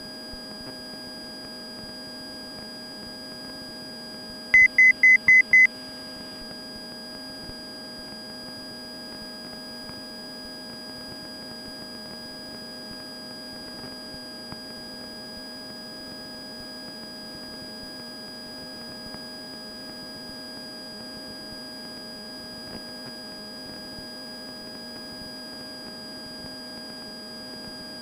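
Cessna 172 stall warning horn sounding as one steady tone throughout the climb-out, the sign that the wing is near the stall because the elevator trim is jammed at full nose-up. About four and a half seconds in, five short, loud, high beeps sound in quick succession.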